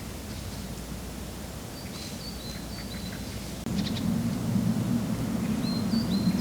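Songbird chirping in two short runs of quick high notes, one about two seconds in and one near the end, over forest ambience. A steady low rumble sets in suddenly past the middle.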